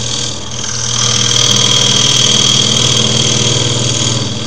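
Wood lathe motor running steadily, with a turning tool scraping into the spinning wood to deepen a recess; the scrape grows louder about a second in.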